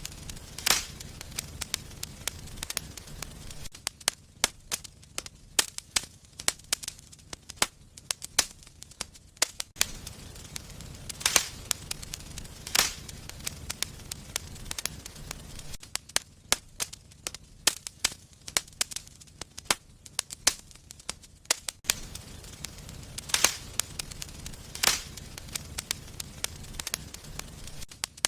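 Wood fire in a fireplace crackling, with frequent small clicks and a handful of loud, sharp pops, over a low rumble of flames that swells and fades every few seconds.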